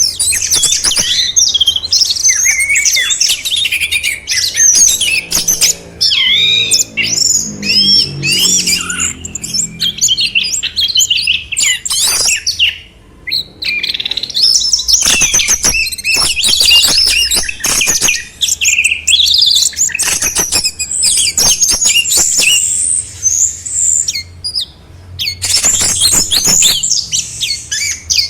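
Songbirds singing a fast, varied, continuous stream of whistled phrases, chirps and trills, briefly pausing about halfway through and again near the end.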